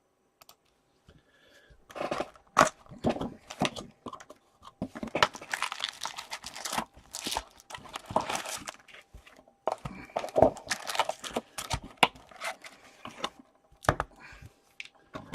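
Hockey card pack wrappers being torn open and crinkled, in irregular rustling bursts starting about two seconds in.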